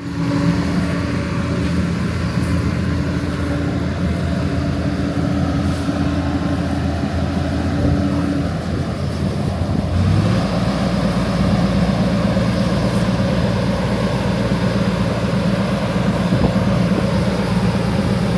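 Heavy farm machinery engine running steadily, with a shift in its pitch about ten seconds in.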